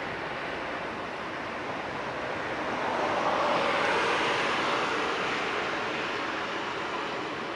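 Distant train noise mixed with wind. The rushing sound swells about three seconds in and then eases off again.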